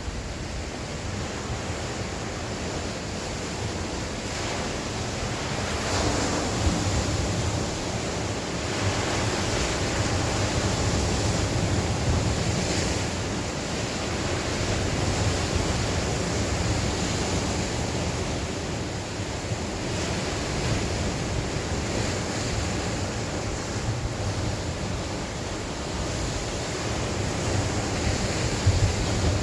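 Sea waves breaking and washing on the shore, a continuous surf wash that swells and eases every few seconds, with wind gusting and buffeting the microphone.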